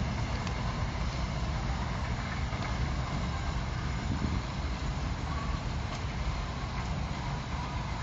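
A train moving away along the line, its low rumble running steadily and fading slowly as it recedes.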